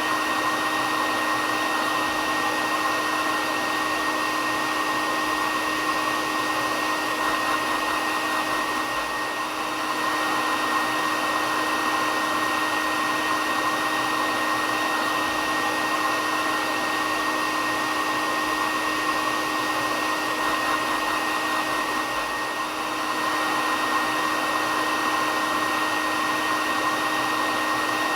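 Hair dryer running steadily on one setting: a continuous airy rush with a steady motor whine in it, played as white noise for sleep.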